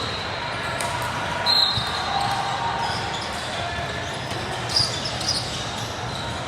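Basketball game sounds in a gym: ball bouncing on the court and crowd chatter, with a short high squeak about a second and a half in and a few more sharp squeaks near the end.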